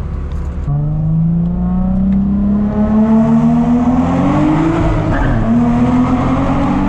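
Nissan 350Z's V6 engine heard from inside the cabin as the car pulls away and accelerates. The revs climb steadily for about four seconds, dip briefly at a gear change, then climb again.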